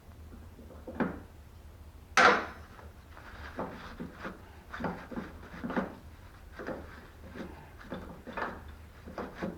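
Door hinge parts being handled while the roller is inspected. A sharp knock comes about two seconds in, then a run of short rubbing and scraping strokes.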